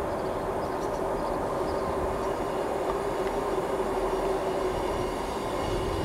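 Class 158 diesel multiple unit running slowly into the station: a steady rumble of engines and wheels on the rails, with a steady hum running through it.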